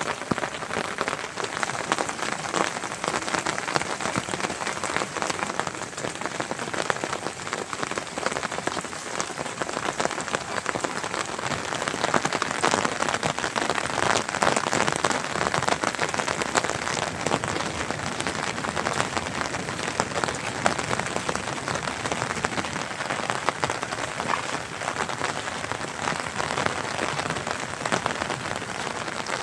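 Steady rain falling, a dense patter of drops hitting surfaces with no pauses or changes.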